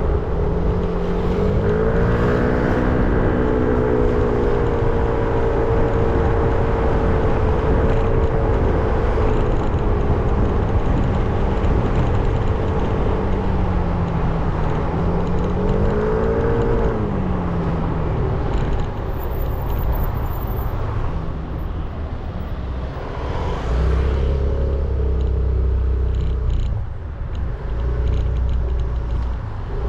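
A 300 cc motorbike engine running under way with wind rush on the helmet-camera microphone. The engine note rises about two seconds in, holds, dips and climbs again around the middle, then drops to a deeper, lower rumble for the last few seconds.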